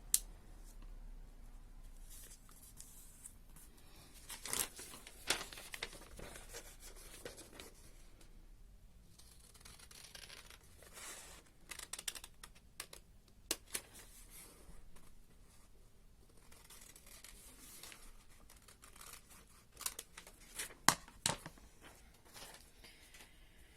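Paper being cut into squares with scissors and handled: scattered sharp snips and rustling, with a few louder clicks.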